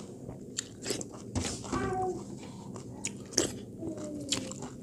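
A person chewing and crunching food close to the microphone, with several sharp biting clicks.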